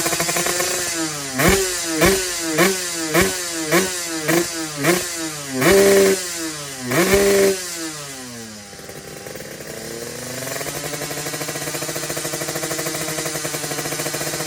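Yamaha 125Z underbone's single-cylinder two-stroke engine with an Eastwood Creampie aftermarket exhaust, idling and then revved in a quick run of about eight short throttle blips, followed by two longer revs. The revs then fall away, dip, and the engine settles back to a steady idle.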